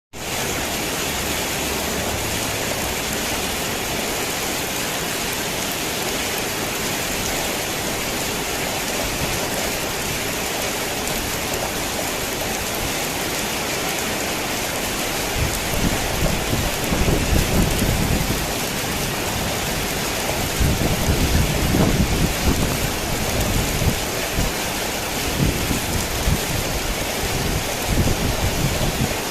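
Heavy rain falling on a tin roof as a steady hiss, with low rumbles of thunder starting about halfway through and coming again several times near the end.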